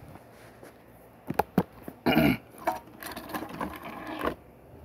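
Plastic toys and Lego pieces being handled and set down on a table: a couple of sharp clicks, a louder short sound about two seconds in, then a run of small rapid plastic clatter.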